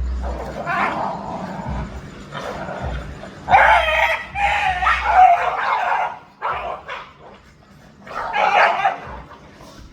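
Dogs barking and yipping in a string of bursts, the longest and loudest running for a couple of seconds in the middle, with shorter ones before and after.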